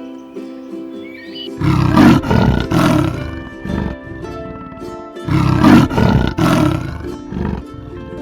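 Tiger roaring in two loud bouts a couple of seconds apart, each a run of several rough roars. Plucked-string background music plays throughout.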